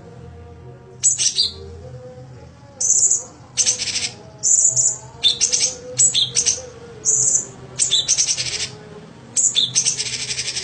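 Songbird singing in short bursts of high chirps and buzzy, rattling phrases, with brief pauses between them and a longer buzzy run near the end.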